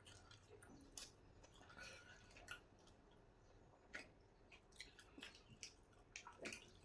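Faint chewing with scattered small mouth clicks, a person eating.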